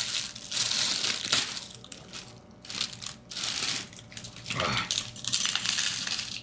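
Crinkling and rustling of a plastic cereal bag from a Lucky Charms box, in four or five short bursts.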